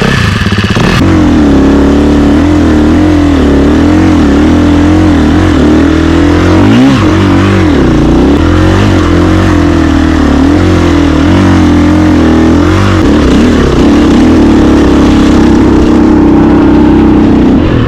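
KTM 350 EXC-F Six Days single-cylinder four-stroke dirt bike engine running through its stock factory exhaust. The revs rise and fall continuously, then hold steadier for the last few seconds.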